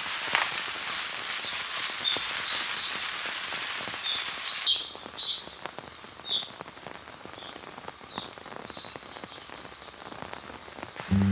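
Steady rain falling, with birds chirping through it. About five seconds in, the rain hiss drops away abruptly, leaving bird chirps and scattered drips; a low steady musical tone starts right at the end.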